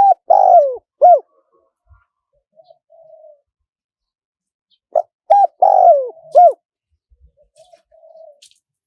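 Spotted dove cooing: two phrases about five seconds apart, each of a couple of short coos, a longer coo that falls in pitch, and one more short coo, followed by a few faint low coos. It is the small-voiced wild-style call played to lure wild doves to a decoy.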